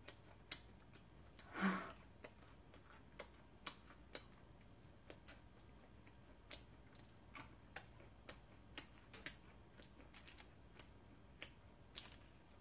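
Faint, irregular crunching clicks of the crisp crust of freshly baked corn bread being chewed, with one louder sound about a second and a half in.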